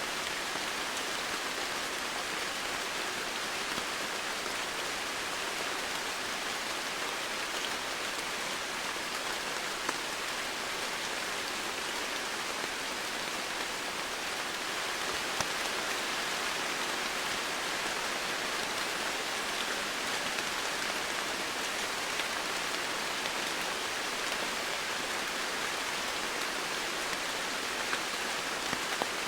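Steady rain falling, an even hiss with a few individual drops ticking out from it now and then.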